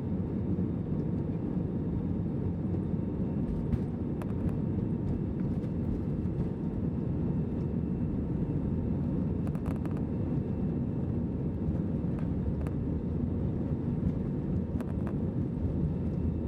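Steady low cabin rumble of an Airbus A320 climbing after takeoff: engine and airflow noise heard from inside the cabin, with a few faint clicks or rattles.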